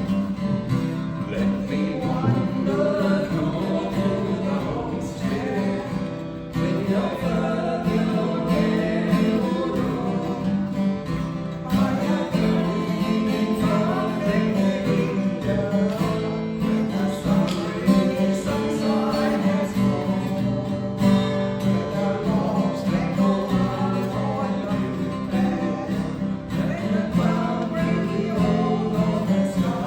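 A person singing a country song to a strummed acoustic guitar.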